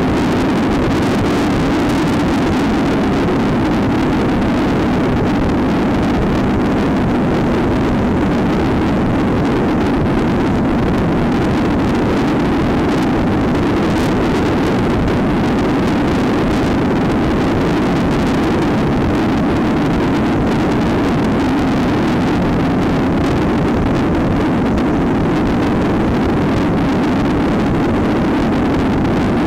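Trail motorcycle engine running at a steady, even speed while riding, with wind noise on the microphone.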